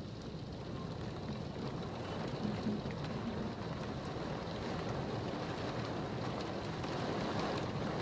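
Rain falling steadily in a thunderstorm, an even hiss.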